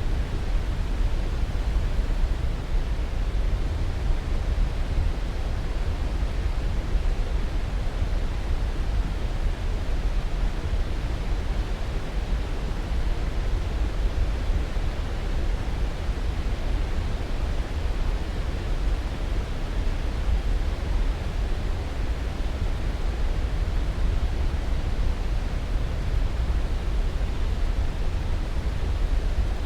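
Steady, unbroken rushing noise, heaviest in the low end: a continuous sleep-aid noise track.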